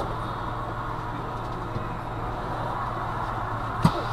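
Steady low hum of a stopped car's engine with traffic noise around it, picked up by the dashcam, and one sharp knock near the end.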